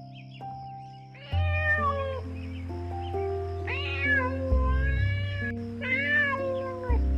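Three drawn-out animal cries, each arching up then falling in pitch, about a second and a half apart, over background music with held notes.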